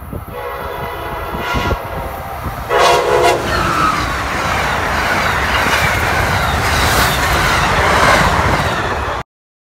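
An Amtrak passenger train sounds its horn with a loud blast about three seconds in as it reaches the platform. This is followed by the loud rush of its cars passing close by, with wheel clatter. The sound cuts off suddenly just before the end.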